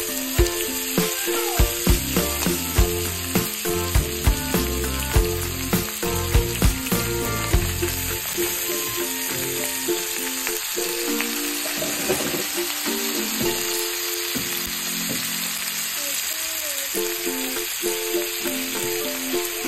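Butter with garlic, ginger and onion sizzling in a wok as raw blue crabs are laid in by hand. Their shells knock against the wok and each other in a run of sharp clicks during roughly the first eight seconds, and the sizzle carries on steadily after.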